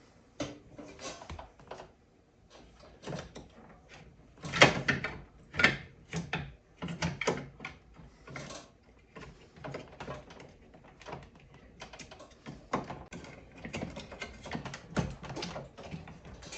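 Irregular knocks, clicks and scrapes of parts being handled and pushed as a replacement fan motor is worked into a mini-split heat pump's indoor air handler. The loudest knock comes about four and a half seconds in.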